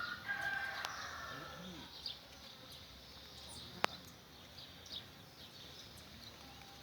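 A rooster crowing once over the first two seconds, with scattered short chirps of small birds and a single sharp click about four seconds in.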